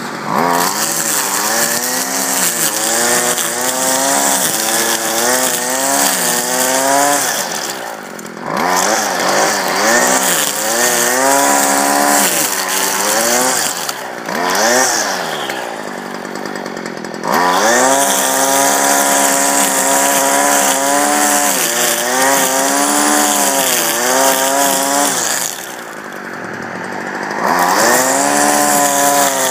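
Stihl KM 56 RC KombiMotor two-stroke engine driving a string trimmer through tall weeds, held near full throttle with its pitch sagging and recovering under the cutting load. It drops back toward idle three times and is revved up again.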